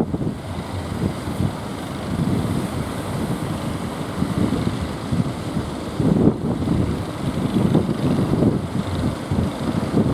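Strong wind buffeting the microphone in uneven gusts over a steady rush of sea noise, with a stronger gust about six seconds in.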